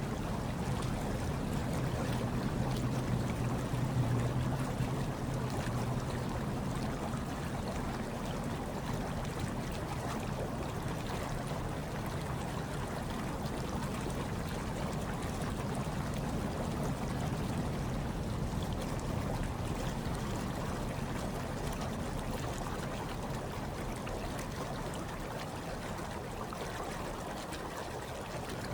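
Hot tub water bubbling and trickling steadily, with a low steady hum underneath.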